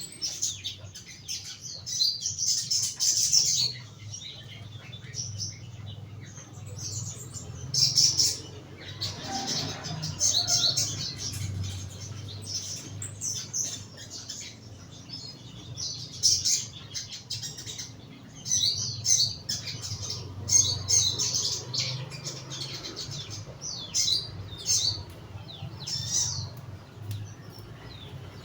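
Young crimson sunbird (sogon) in a cage, giving repeated bursts of short, high, thin chirps and twitters with pauses between them, over a steady low background hum.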